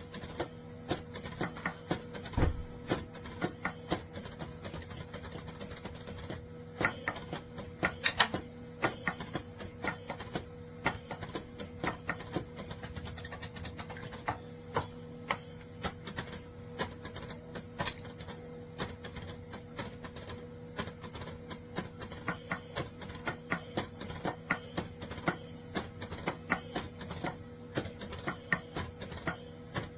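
Drumsticks tapping on the pads of a Donner DED-80 electronic mesh drum kit: an uneven stream of dull clicks and knocks, with a few harder hits. A steady low hum runs underneath.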